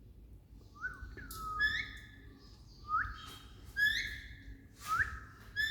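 Pet green parrot giving short whistled notes that rise at the start, in pairs about two seconds apart, three pairs in all, beginning about a second in.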